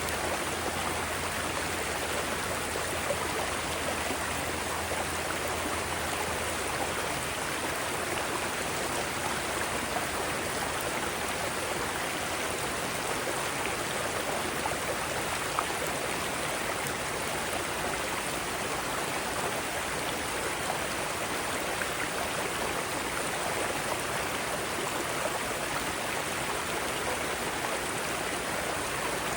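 Mountain stream cascading over rocks: a steady, even rush of flowing water.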